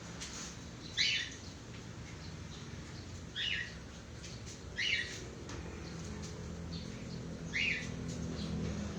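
A bird chirping four times: short, high, falling chirps a second or two apart, over a steady low background hum.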